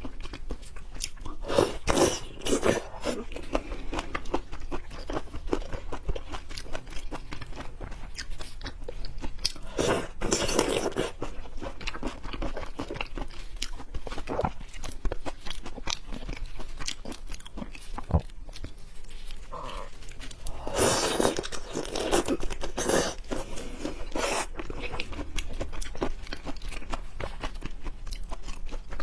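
A person chewing and crunching seafood close to the microphone, with dense small clicks and louder bites about 2, 10 and 21 seconds in.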